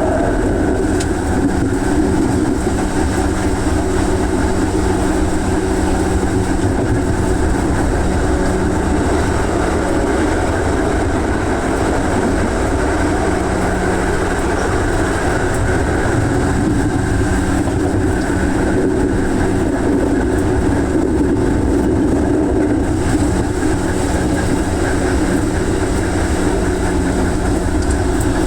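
JR West Yamatoji Line local electric train running at speed, heard from on board: steady rumble of wheels on rail with a low motor hum that fades out briefly a couple of times and returns.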